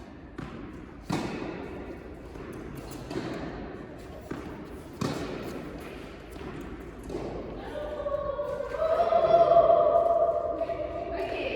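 Tennis ball being hit by rackets and bouncing on an indoor court: several sharp, echoing hits a second or two apart, the loudest about a second in and about five seconds in. Players' voices rise from about eight seconds in.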